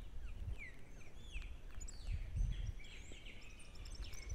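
Several wild birds calling: short downward-slurred notes repeated at first, then a busier chorus of overlapping calls from about two seconds in. A low rumble runs underneath, loudest around the middle.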